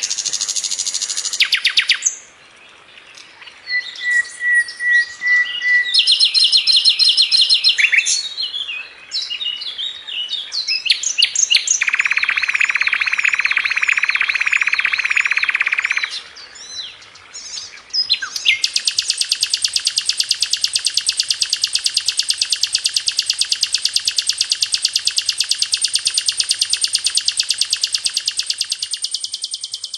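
Brown-chested jungle flycatcher (sikatan londo) singing a varied, fast song. It runs through short chattering phrases and trills and a buzzy note, then from about 18 seconds in holds one long, very rapid trill for about eleven seconds.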